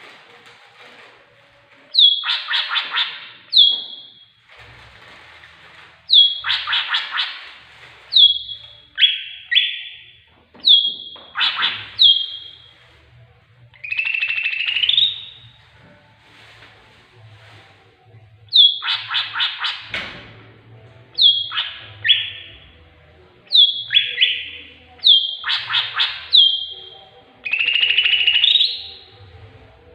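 Tengkek buto kingfisher calling: loud, sharp notes that slide down in pitch, some single and some in quick runs of four to six, repeated in bouts every second or two, with a few longer rising notes.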